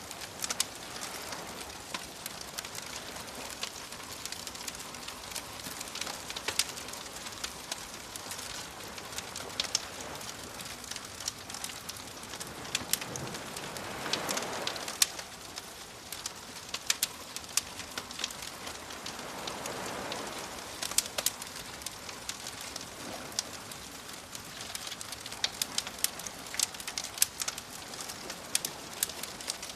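Wood fire crackling with frequent sharp pops, over soft waves that swell in twice, about halfway through and again some six seconds later.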